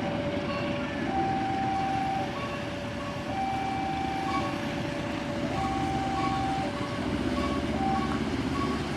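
A passenger train running, a steady rumble, with an electronic warning signal sounding over it. The signal alternates between a lower and a higher tone about once a second, with short high beeps about twice a second.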